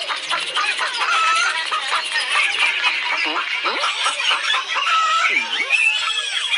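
Many birds calling over one another in a dense chorus of short rising and falling calls that cuts off suddenly near the end.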